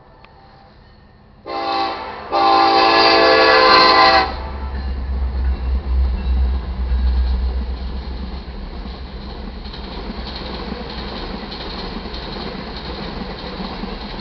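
The horn of a BNSF EMD SD70ACe diesel locomotive sounds a short blast and then a long one for the grade crossing. The deep rumble of the diesel locomotives passing close by follows. After that come the steady rolling and clatter of the iron ore cars going by.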